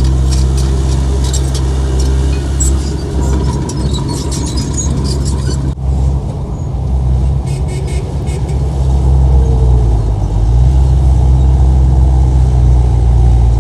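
Heavy diesel earthmoving machinery engine running steadily under load, with rapid metallic clicking and squeaking through the first half and a brief dropout about six seconds in.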